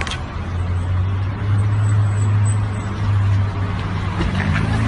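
A motor vehicle's engine running with a steady low hum, and a sharp knock right at the start.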